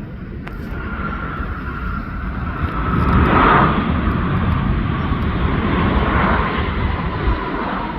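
Jet airliner's engines roaring as it passes, with a whine that drops slightly in pitch; loudest about three and a half seconds in.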